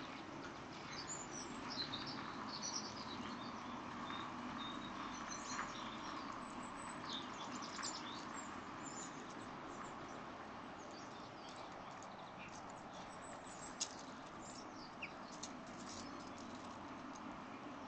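Small birds chirping and twittering in short high notes over a steady background hiss, busiest in the first half. A few sharp single taps come in the second half.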